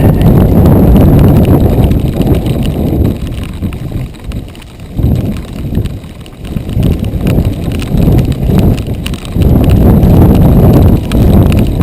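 Giant XTC 3 mountain bike riding fast over a dirt trail: tyres rumbling and the bike rattling and clicking over bumps, with wind buffeting the microphone. It eases off for a few seconds in the middle, then gets loud again.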